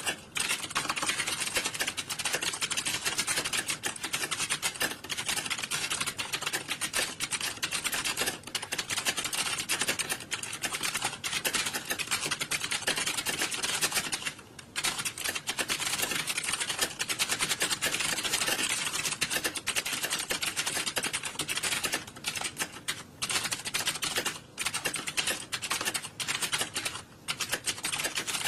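Many people typing on computer keyboards at once: a dense, steady clatter of overlapping key clicks, with a few brief lulls in the second half.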